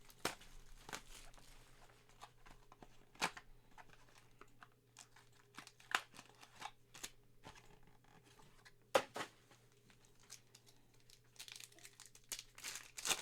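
Packaging of a sealed trading-card mini box being torn and crinkled open by hand, in scattered crackles with a few sharper rips, the strongest about nine seconds in.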